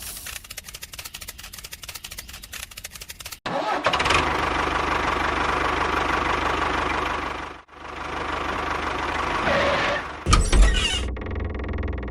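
Rapid clicking, then a loud steady mechanical running sound like a small engine. It cuts out briefly and starts again, with heavy knocks near the end.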